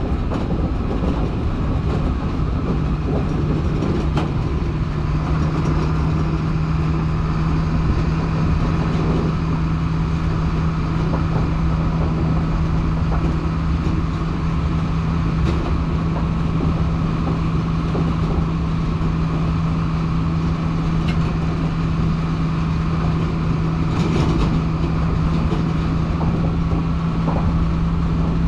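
Stewart & Stevenson M1078 LMTV military truck driving at a steady speed: a steady low drone with a constant hum and rattling throughout.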